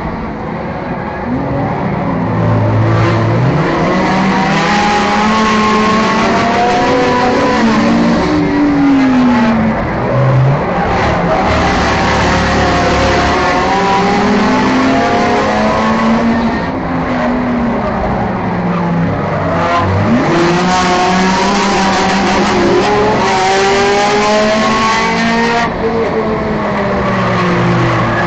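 Four- and six-cylinder enduro race car engines racing around a short oval track. The engine pitch climbs and drops every few seconds as the drivers accelerate down the straights and lift for the turns.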